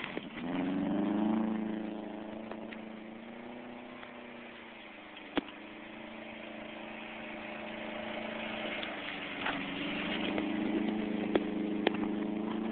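A 2007 Subaru WRX's turbocharged flat-four engine revs up about half a second in, eases back to a steady run, then climbs again in the last few seconds. A few sharp clicks are heard.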